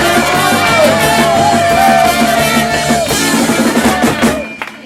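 Live rock band playing with drum kit, guitar and a sung melody; the song ends and the music drops away near the end.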